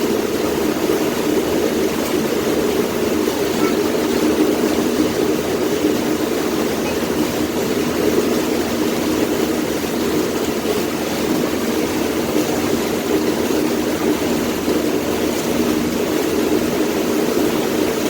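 Passenger boat's engine running steadily and loud, heard from the stern close to the engine, over a constant rush of water.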